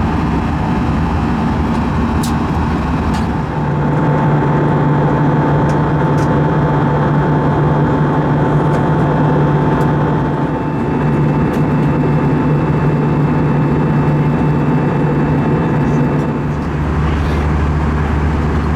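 Airbus A320 cabin noise in flight: a steady loud rush of airflow and engine drone with a constant hum. A few faint clicks, and the low hum deepens about sixteen seconds in.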